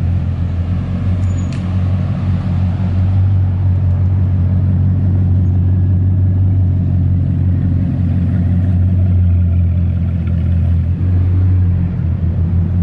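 Bugatti Chiron's quad-turbo W16 engine running steadily at low, even revs while the car cruises, a constant deep drone with little change in pitch.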